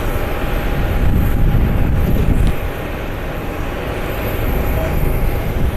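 Southwest Boeing 737 jet airliner's engines running loud: a deep, steady rumble with a faint steady whine above it.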